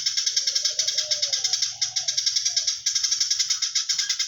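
Eurasian tree sparrow singing a fast, unbroken chatter of chirps, the 'koslet' style that is played as a tutor song for oriental magpie-robins.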